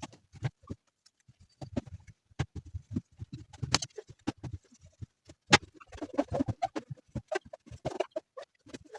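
Irregular knocks and clatters, one sharp knock about five and a half seconds in, with squeaky rubbing joining them from about six seconds in.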